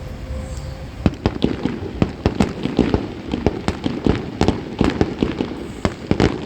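Fireworks going off: from about a second in, a rapid crackling run of sharp cracks and pops, many a second.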